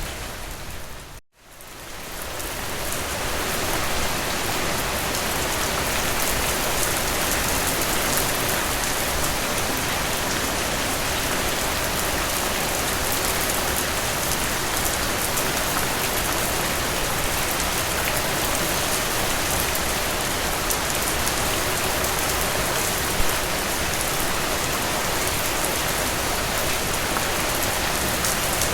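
Steady rain falling, a dense even hiss with fine drop patter. About a second in, the sound cuts out abruptly and fades back up over a couple of seconds, then holds steady.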